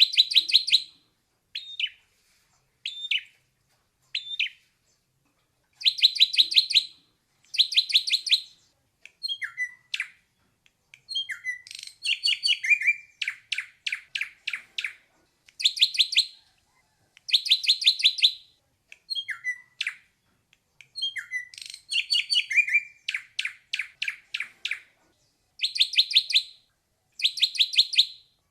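Ashy drongo singing: phrases of fast, evenly repeated ringing notes about a second long, mixed with short whistled notes that slide down in pitch, with brief pauses between phrases.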